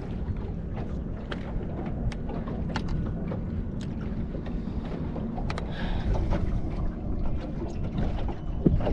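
Steady low rumble of wind and water around a small fishing boat, with scattered sharp clicks and knocks.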